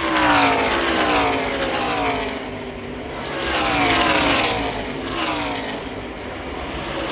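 A pack of NASCAR Camping World Truck Series race trucks passing at speed on the oval, their V8 engines dropping in pitch as each goes by. Two waves of trucks pass: one at the start and another about four seconds in.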